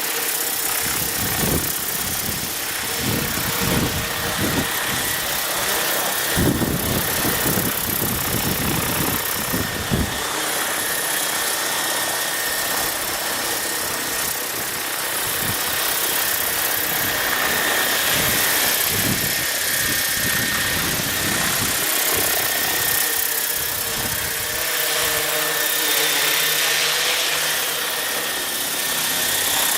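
Align T-Rex 800 electric RC helicopter running, a steady high motor and rotor whine with a broad rush of rotor noise. Gusts of wind buffet the microphone, heaviest in the first ten seconds or so.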